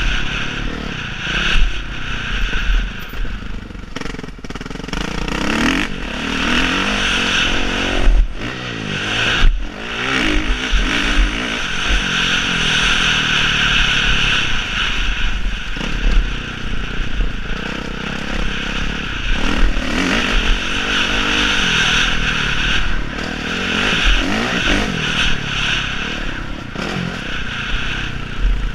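Motocross bike engines revving up and down over and over, the pitch climbing and falling as the riders work the throttle.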